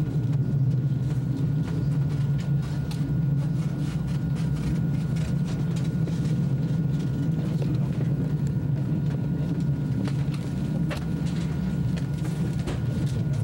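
ICE high-speed train running steadily, heard from inside the passenger car as an even low rumble, with a faint steady high tone and a few light clicks over it.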